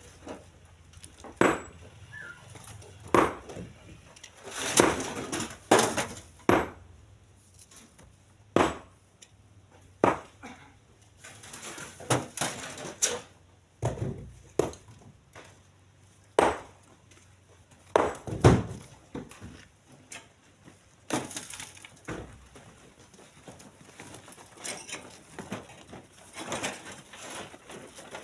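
Split stones being thrown into a truck bed, knocking and clattering at irregular intervals of a second or two. The loudest knocks come about two-thirds of the way through.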